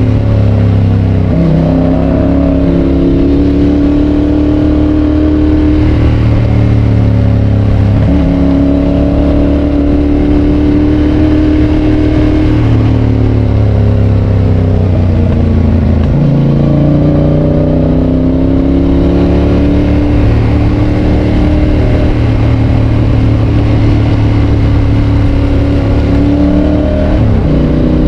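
Yamaha Tracer 7's parallel-twin engine running through a GPR aftermarket exhaust while riding, its pitch drifting slowly up and down with a few abrupt changes in note, about a second in, near the middle and near the end.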